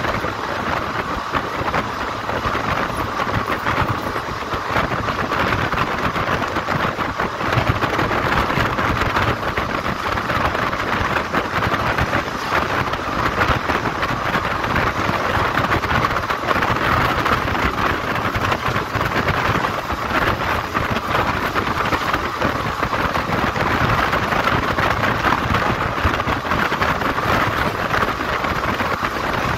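Steady rush of wind and wheel-on-rail noise from a moving Indian Railways passenger train, the Kalinga Utkal Express, heard at an open coach window.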